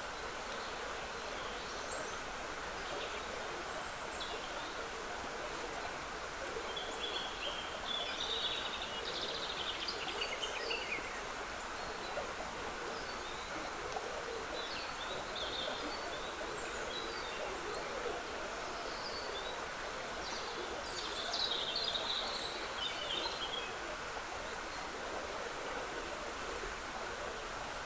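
Steady trickling of a small woodland stream, with songbirds singing over it: scattered high chirps, and louder song phrases about a quarter of the way in and again past the two-thirds mark.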